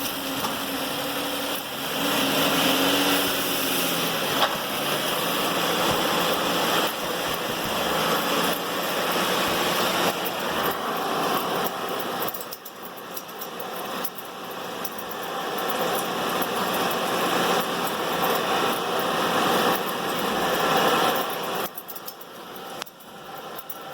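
Ford Edge's engine running in drive on a lift, turning the front wheels and half-shafts freely, with a loud mechanical noise from the front driveline that the mechanic thinks may originate at the constant-velocity joint. The level dips briefly about halfway through and again near the end.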